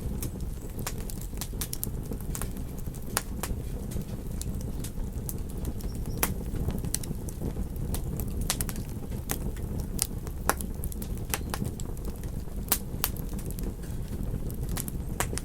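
Campfire burning: a steady low rush with irregular sharp crackles and pops from the burning wood, a few of them louder.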